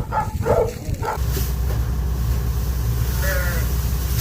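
A few short animal calls, then an engine starts running steadily about a second in, with one more brief call partway through.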